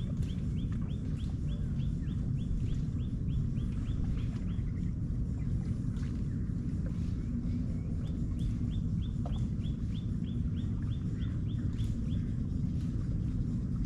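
A bird calling in rapid series of short, high notes, about five a second, in two runs: one at the start and one from about the middle to near the end. Under it runs a steady low rumble.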